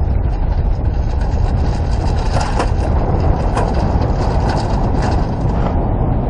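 Wind buffeting the microphone on a sailboat: a steady low rumble with scattered crackles.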